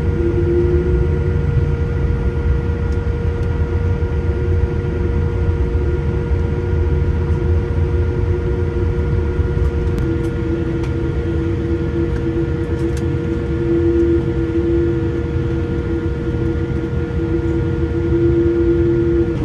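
Steady cabin noise inside a Boeing 787-8 airliner: a low rumble with a steady mid-pitched whine, and a few faint clicks around the middle.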